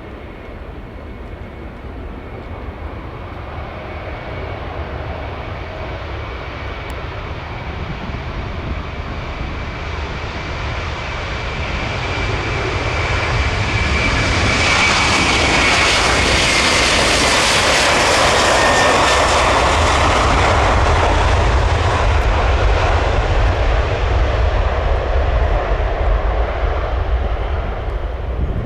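Airbus A330-300 airliner on its takeoff run, its General Electric CF6 turbofans at takeoff power. The engine noise builds steadily to its loudest about halfway through, where a high whine drops in pitch as the aircraft passes. A deep rumble then carries on and fades only slightly.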